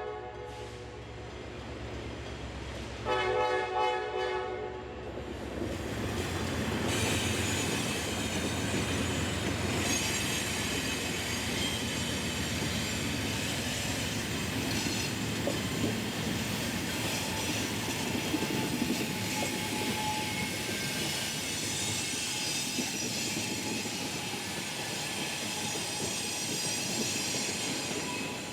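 Train horn sounding, with one blast ending about five seconds in, then the train passing: a steady rumble and clatter of rolling wheels with high-pitched wheel squeal.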